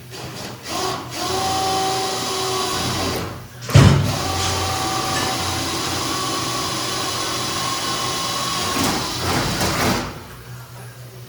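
Power drill running in two long bursts, drilling holes in race-car body panels, with a steady whine; a sharp knock comes between the bursts, about four seconds in.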